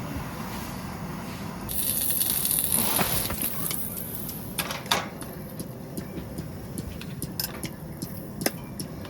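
A hiss lasting about a second and a half, then scattered light clicks and knocks, with one sharper knock about five seconds in.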